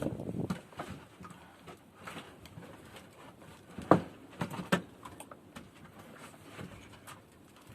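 A wooden board being handled and set against an opening, giving irregular knocks and scrapes of wood. There is a rustling scrape at the start and one sharp knock about four seconds in, the loudest sound, followed by a few lighter knocks.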